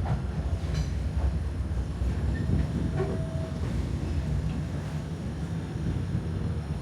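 Passenger car of a narrow-gauge steam train rolling along the track: a steady low rumble with a few light clicks and rattles.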